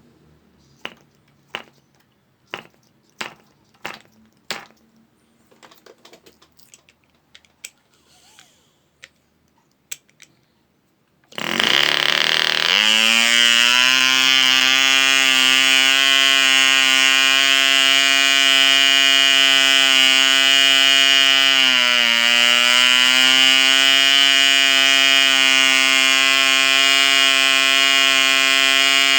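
ED Mk2 1cc model diesel engine being hand-started, a series of sharp clicks as the propeller is flicked over, then catching about eleven seconds in and running steadily at high speed with a high-pitched whine. Its pitch sags briefly and recovers about ten seconds after it starts.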